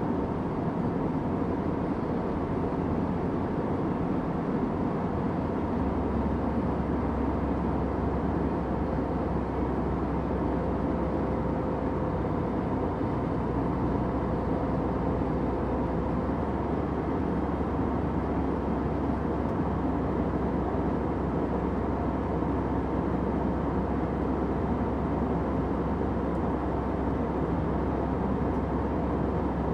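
Airliner cabin noise in flight: a steady, even hum of engines and rushing air, strongest in the low range, with faint steady tones running through it.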